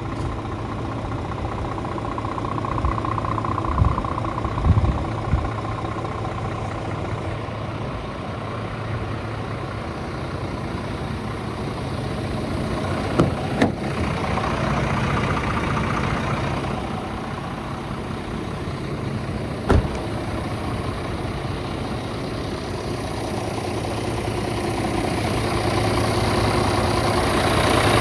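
Scania R450 truck's 13-litre inline-six diesel idling steadily, with a few sharp knocks along the way. It grows somewhat louder near the end.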